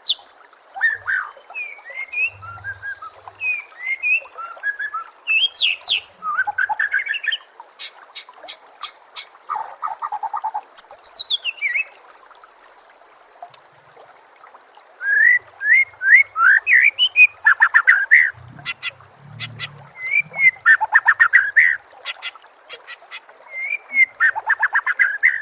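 White-rumped shama (murai batu) singing in loud, varied bouts of rising whistled notes and fast rattling trills, with a short lull partway through. A trickling stream runs steadily underneath.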